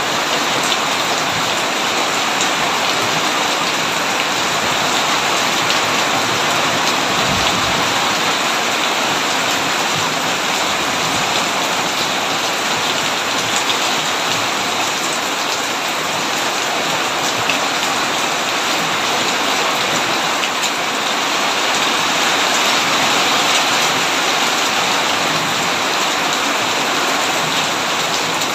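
Heavy rain falling steadily on a tin roof, an even, unbroken downpour.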